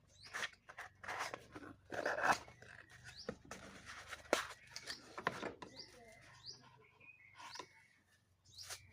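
Handling noises from unboxing a guitar effects pedal: irregular rustles, clicks and taps of packaging and box parts. Short bird chirps can be heard in the background in the second half.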